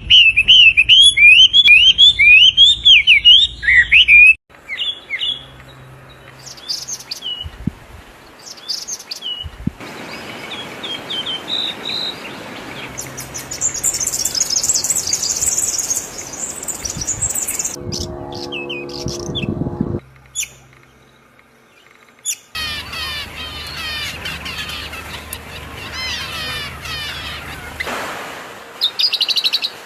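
Different birds chirping and calling one after another, the sound changing abruptly every few seconds. Loud rapid chirps open it, high trills follow, then a brief low call, a short quiet gap, and fast chattering near the end.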